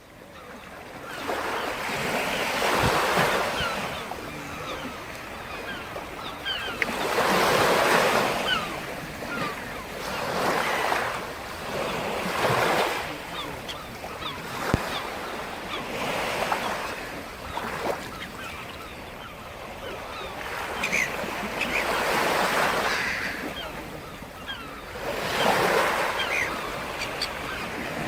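Sea surf: waves breaking on the shore and washing back, the rush of water swelling and ebbing every few seconds. It fades in over the first second.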